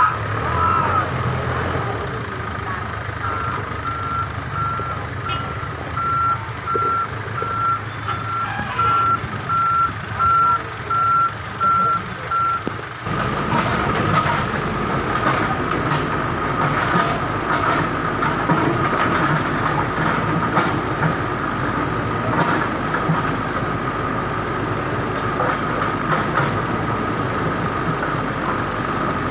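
A vehicle's reversing alarm beeps steadily at one pitch over the running of heavy engines. Partway through the beeping stops, and a denser, louder spell of engine and traffic noise begins abruptly.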